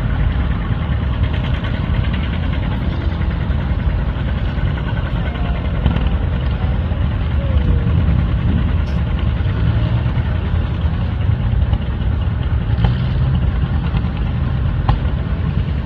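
Vehicle engine running steadily and loudly, heard from on board while travelling.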